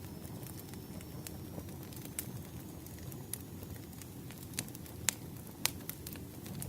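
Campfire burning: a steady low rumble of flames with scattered sharp crackles and pops from the wood, the loudest two pops coming about five seconds in.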